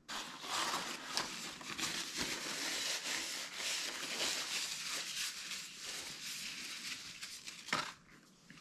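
Paper fast-food packaging rustling and crinkling as it is handled, with one sharper click near the end.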